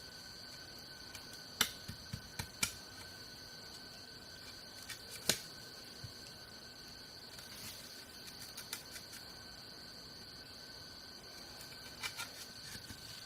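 A few sharp clicks or knocks, the loudest about five seconds in and a small cluster near the end, over a steady high-pitched hum.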